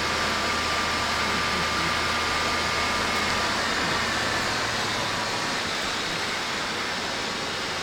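Steady road noise from a car driving along a mountain highway, with a faint whine that fades out about halfway through.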